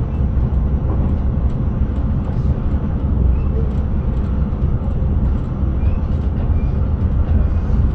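Passenger train running steadily, heard from inside the driver's cab: a continuous low rumble of wheels on rail and running gear with a few faint ticks.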